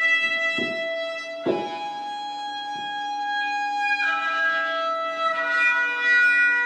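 Recorded shofar blasts: long, sustained horn notes that overlap and shift to new pitches every second or two over one steady lower tone.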